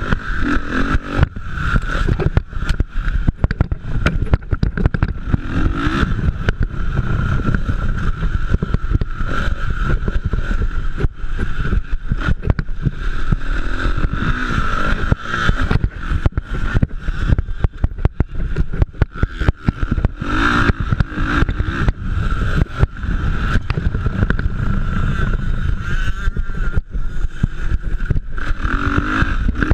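Motocross motorcycle engines running and revving as bikes race, with rough buffeting on the microphone.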